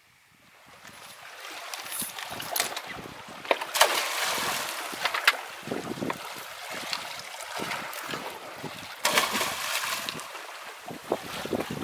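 Sea water surging and splashing against a rocky shore, fading in over the first second or two, with louder splashes about four seconds in and again near nine seconds.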